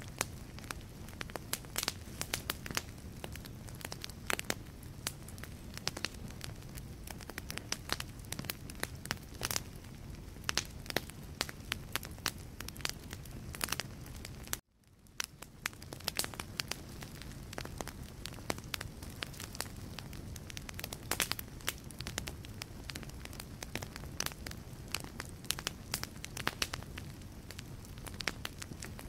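Wood logs burning in a fireplace: dense, irregular crackling and popping over a steady low rumble of flame. About halfway through, the sound cuts out abruptly for a moment, then fades back in.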